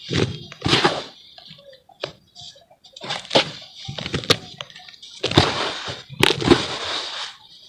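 Charcoal crumbling in water, in irregular crunching, crackling bursts with short pauses between them and a few sharp snaps.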